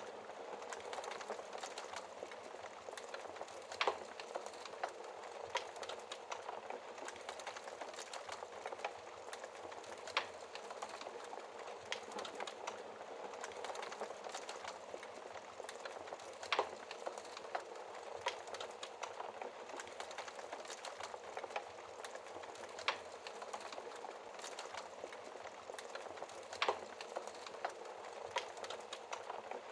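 Wood fire in a fireplace crackling, with a steady hiss of flames under many small ticks and about five sharper pops every six seconds or so.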